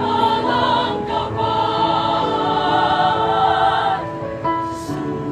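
Church choir singing a hymn in several parts, holding long chords. The high voices are loud and full until about four seconds in, then drop back and the lower parts carry on more softly.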